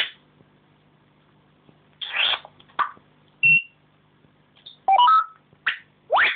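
African grey parrot making a string of short, separate calls with pauses between them: a rough squawk, a brief steady whistle, a few notes that jump in pitch, and a rising whistle near the end.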